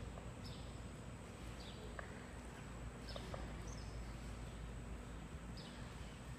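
A bird chirping over and over, short high chirps that slide down in pitch, about one every half second to a second, over a steady low background hum.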